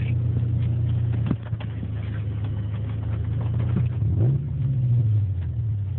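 Honda Prelude's engine running, heard from inside the cabin as a steady low drone. About four seconds in it revs briefly, rising and then settling back down.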